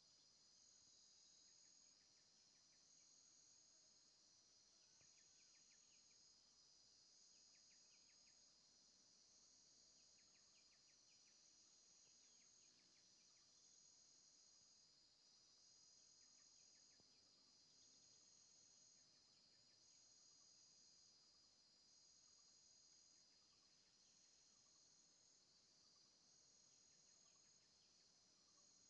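Faint chorus of insects trilling, a steady high buzz with one voice pulsing on and off about every two seconds. Scattered faint short chirps sound through it.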